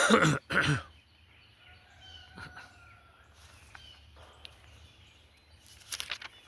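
A turkey gobbling loudly in the first second, followed by faint bird calls. A short burst of sharp clicks comes near the end.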